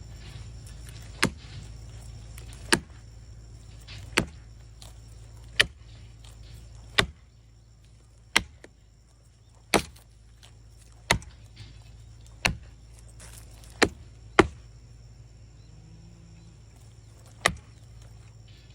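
A dozen sharp blows striking a tree being felled, evenly paced at about one every second and a half, with a pause of about three seconds near the end. A steady low rumble runs underneath.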